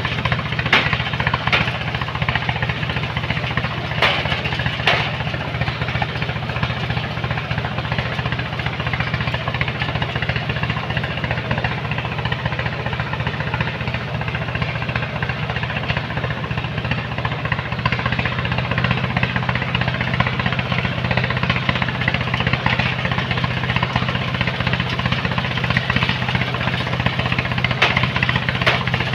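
Heavy machinery diesel engine running steadily under load, with a few sharp metallic clanks in the first five seconds and again near the end. Its note shifts slightly about eighteen seconds in.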